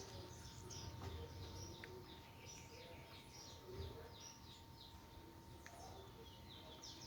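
Faint wild songbirds chirping: a steady run of quick, high, falling chirps from several birds, one after another.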